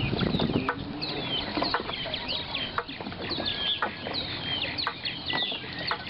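Birds chirping and calling over and over in short, falling notes, with a few scattered clicks.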